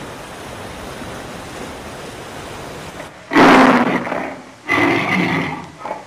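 Big cat roaring three times in short, rough bursts about a second apart, after a few seconds of steady hiss.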